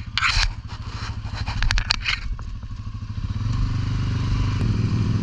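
ATV engine running, with a few sharp scrapes and clatters in the first two seconds or so. The engine picks up and runs louder and steadier from about three and a half seconds in.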